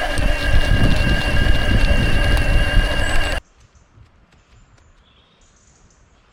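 Riding noise on an action camera mic during a mountain bike ride: loud wind rumble and tyre noise with a steady high whine over it, cutting off abruptly about three and a half seconds in. After the cut there are only faint outdoor sounds.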